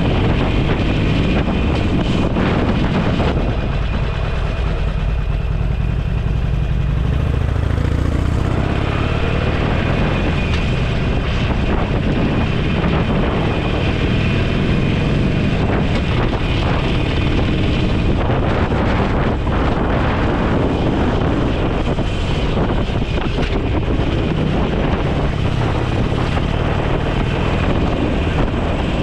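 Motorcycle engine running steadily on the road, with wind rushing over the microphone.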